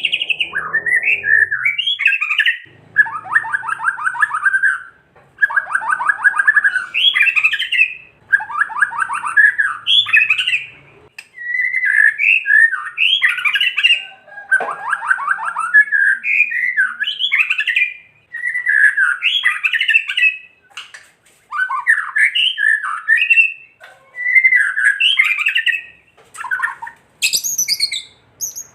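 White-rumped shama giving loud agitated phrases, fast dry rattles (the 'kretekan') mixed with quick varied song notes, in bursts of one to two seconds with short pauses between. This is the bird's aggressive, worked-up call, the kind keepers play to rouse other shamas.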